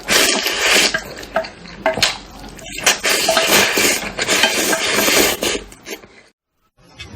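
Close-miked eating of Indomie instant noodles: two long stretches of loud, noisy mouth sounds with small clicks of utensils against the dish between them. The sound cuts out to silence for about half a second near the end.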